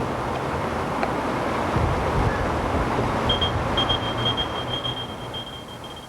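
Steady vehicle running noise. About halfway in, a pager starts a run of rapid high beeps that lasts about three seconds: the technician's pager alerting him to a call from dispatch.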